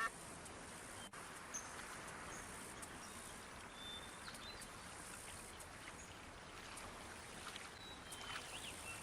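Faint outdoor ambience: a steady soft hiss with a few short, high bird chirps scattered through it, a small cluster of them near the end.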